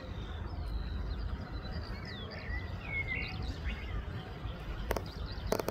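Small birds chirping over a steady low rumble, with two sharp clicks near the end.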